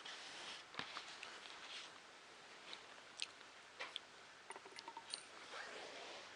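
Faint scattered clicks and taps of small parts being handled as a 3D printer's Y-axis belt holder is fitted in place.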